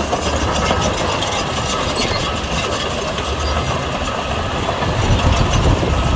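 Heavy diesel earthmoving machinery running steadily, with a low engine rumble; most likely a crawler bulldozer at work.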